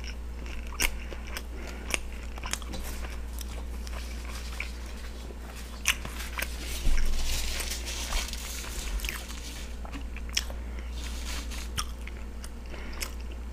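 Close-up chewing of a mouthful of steak and cheese sub, with wet mouth clicks and smacks. The chewing gets louder about seven seconds in. A steady low hum runs underneath.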